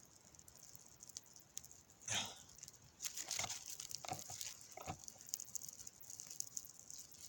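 Small campfire of wet wood and birch bark burning, with scattered crackles and pops and a few louder rustling bursts.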